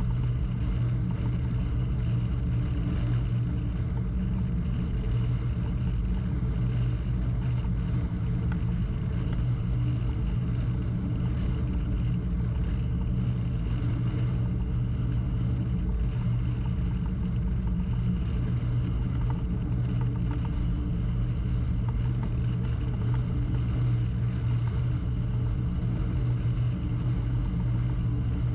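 A crew launch's engine running steadily under way, a constant low drone with a strong steady hum.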